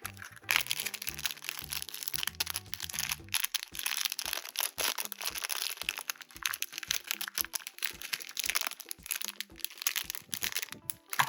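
Toy packaging being handled and opened: dense, crisp crinkling and crackling that goes on almost without a break.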